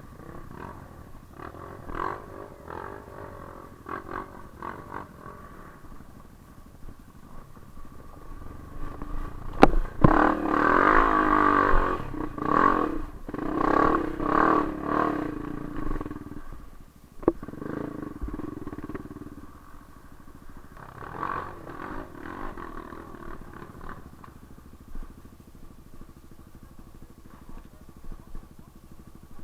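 Off-road motorcycle engine running, revved hard in repeated bursts through the middle, with a couple of sharp clicks.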